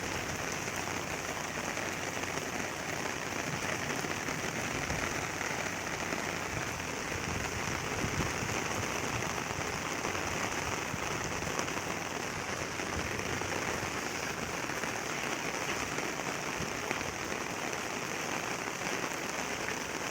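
Rain falling steadily, an even hiss that holds unchanged throughout.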